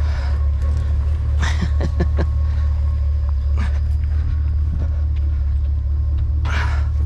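Idling truck engine giving a steady low rumble, with a few short knocks and rustles of scrap being handled, and a louder rustling rush near the end.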